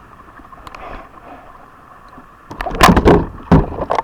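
Low steady background, then about two and a half seconds in a rapid run of loud knocks and thumps on the kayak's hull.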